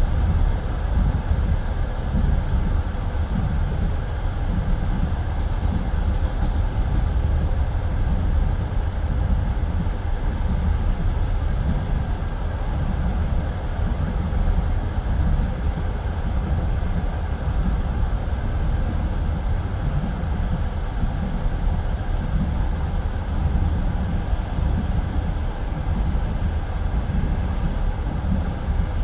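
Passenger train carriage running at speed between stations, heard from inside the car: a steady low rumble of wheels on the rails.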